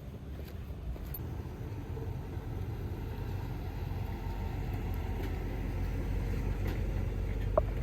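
An engine's low, steady rumble, growing gradually louder, with a short sharp click near the end.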